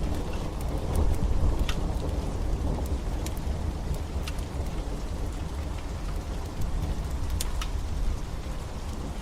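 Steady rain over a deep low rumble, with a wood fire crackling: a few sharp pops scattered through.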